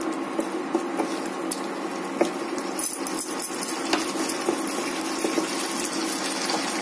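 Chicken and masala sizzling as they fry down in a non-stick kadai, with a wooden spatula stirring and scraping and knocking against the pan in scattered clicks; the stirring stops about four seconds in while the sizzling goes on.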